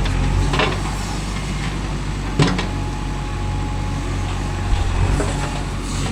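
Diesel engine of a working backhoe running steadily, with a few sharp knocks, the loudest about two and a half seconds in.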